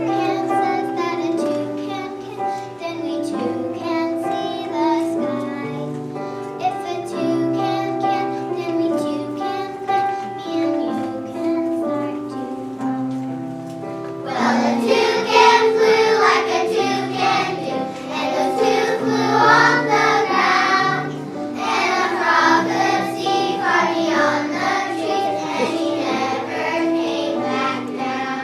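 Children singing together as a class chorus over backing music. The singing gets noticeably louder and fuller about halfway through.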